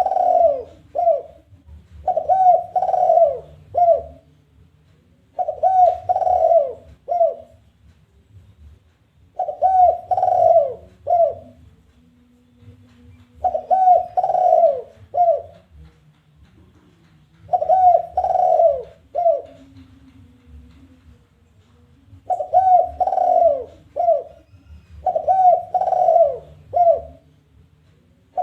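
Spotted dove (tekukur) cooing its challenging call, a three-note phrase with a shorter last note, repeated about every three to four seconds. A faint low hum runs underneath.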